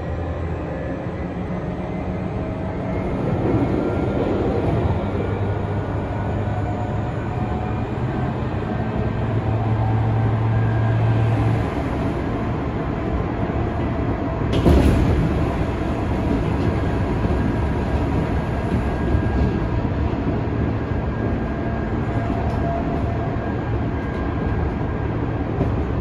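Tokyu 5000 series electric train running at speed, heard from inside the passenger car: a steady rumble of wheels on rail with faint whining tones and a low hum that stops about twelve seconds in. About fifteen seconds in comes a single sharp thump, the loudest sound.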